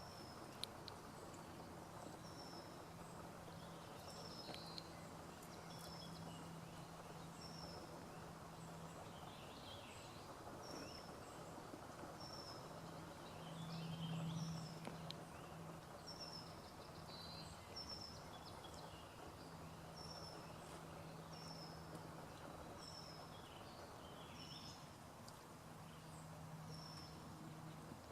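Quiet outdoor ambience: a small bird repeats a short, high chirp about once a second, over a low steady hum.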